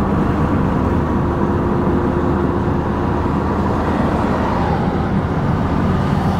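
Steady car-cabin noise while driving: engine and tyre rumble heard from inside the moving car.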